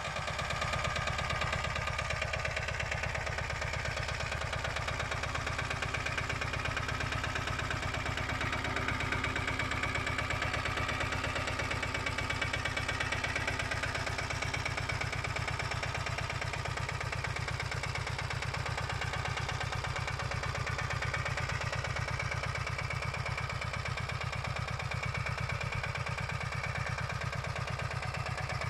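Lombardini 3LD 510 single-cylinder diesel engine of a 622 motor mower running steadily at an even speed.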